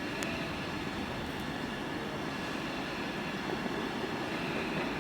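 A train running at a station platform: a steady rumble and hum with faint steady tones, and no change in loudness.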